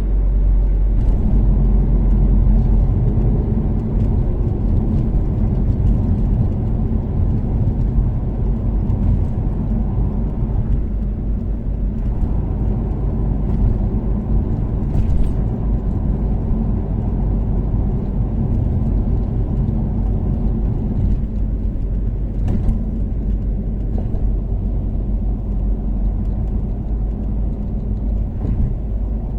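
Steady low rumble of a Toyota Caldina's turbocharged 3S-GTE four-cylinder engine and its tyres cruising at an even speed on an expressway. Two brief faint ticks come through partway in.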